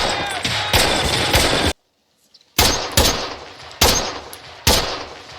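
War-film small-arms gunfire. A dense volley of rapid shots cuts off abruptly, then after about a second of silence come four single loud shots less than a second apart, each echoing away.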